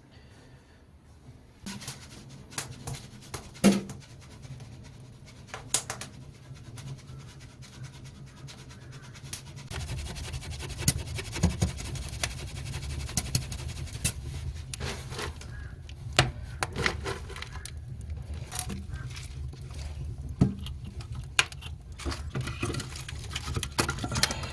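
Firewood being handled and burning in an agungi firebox: irregular knocks, scrapes and sharp cracks, with a steadier rushing noise and low rumble that sets in about ten seconds in.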